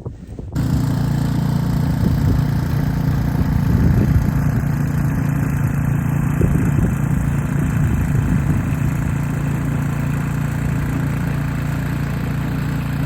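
Snowblower engine running steadily, cutting in abruptly about half a second in.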